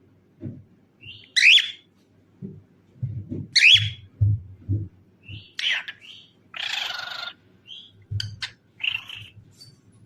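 Cockatiel calling: short sweeping whistled calls about every two seconds, a harsher, raspy screech near the middle, and a few quick clicks and a short chirp near the end, with soft low thumps underneath.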